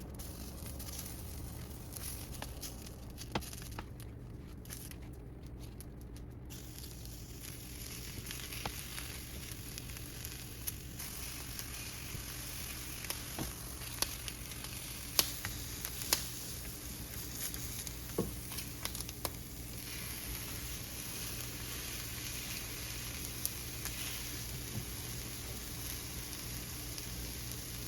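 Cheese quesadillas frying on a hot griddle: a steady sizzle with scattered small pops and clicks.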